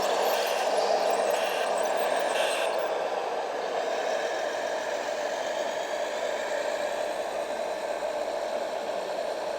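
Radio-controlled model trucks and construction machines running, their small electric motors and gearboxes whirring steadily, with a few short hisses in the first few seconds.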